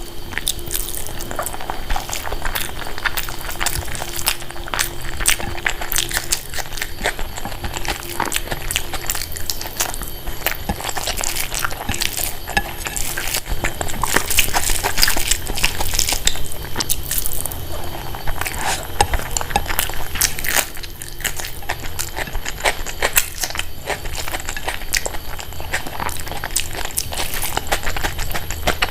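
Close-miked eating: a person chewing mouthfuls of food, with dense irregular wet mouth clicks and crackles throughout.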